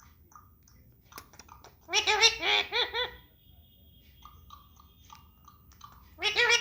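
A pet green parrot imitating laughter: a quick run of high 'ha-ha-ha' notes about two seconds in and another near the end, with soft short chirps and a brief thin whistle between them.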